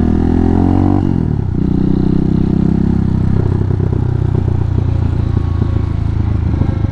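Hawk 250 dual-sport motorcycle's single-cylinder four-stroke engine under acceleration. The pitch drops at a gear change about a second in, holds steady, then falls to a lower, choppier note as the throttle eases about three seconds in.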